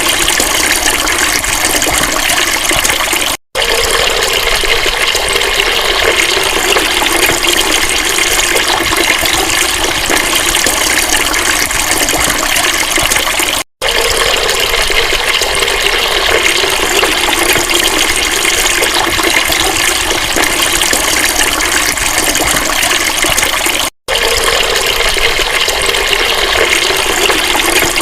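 Steady rush of flowing water. The sound cuts out for an instant three times.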